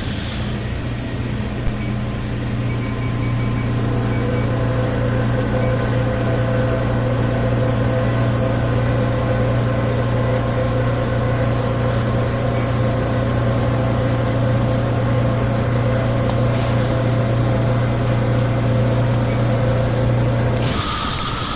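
New York subway L train car standing in the station, its electrical and air-conditioning equipment giving a steady low hum with a few fainter steady tones above it. Near the end the hum cuts off and a short hiss follows.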